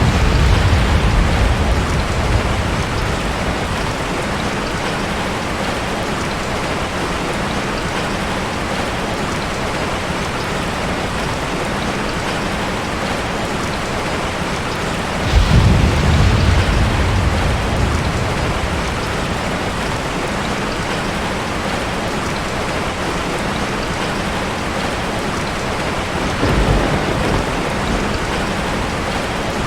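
Steady heavy rain falling, with rolls of thunder: one fading away at the start, a louder one about halfway through, and a weaker one near the end.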